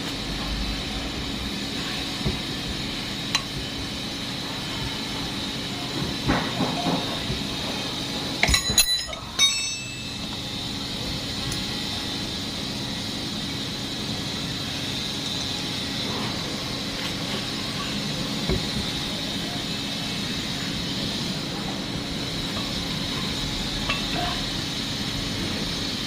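Scattered metallic clinks and knocks of tools and engine parts being handled, with a brief cluster of ringing clinks a little over a third of the way in, over a steady background hum.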